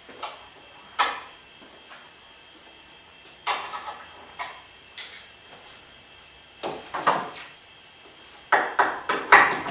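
Irregular clinks and knocks of hard metal parts or tools being handled and set down, spaced out at first, with a quicker run of clatter near the end.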